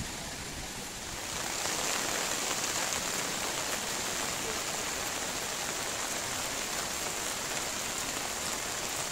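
Steady rain falling, an even hiss that grows louder about a second in and then holds.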